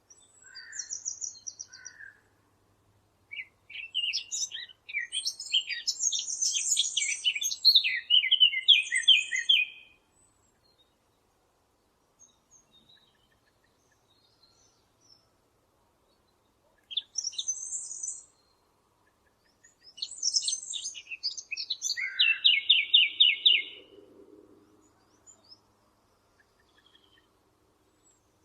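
A Sylvia warbler singing: two long songs of fast, varied warbling, each ending in a run of evenly repeated notes, with short notes at the start and quiet gaps between songs.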